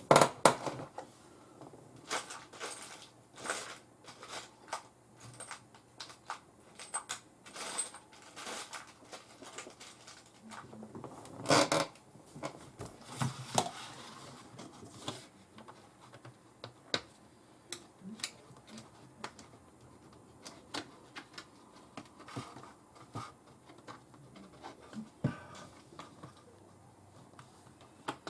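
Irregular small clicks, taps and knocks of hands handling and fitting hard objects, with a louder knock about twelve seconds in.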